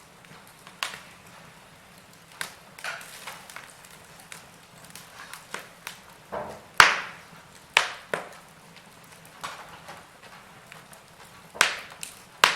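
Wood fire crackling in a fireplace: irregular sharp pops and snaps over a faint steady hiss, with the loudest pops a little past halfway and again near the end.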